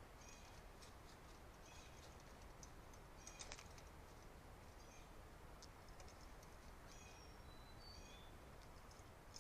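Faint, short high bird chirps and a few brief whistled notes over a low steady hiss, with a soft click about three and a half seconds in.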